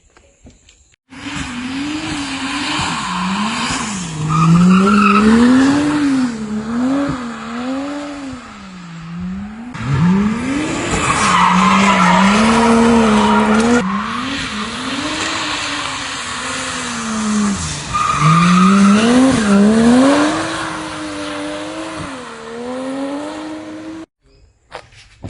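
Drift car's engine revving up and down again and again as the throttle is worked, with the tyres squealing and skidding, loudest in three stretches. The sound starts abruptly and cuts off abruptly shortly before the end.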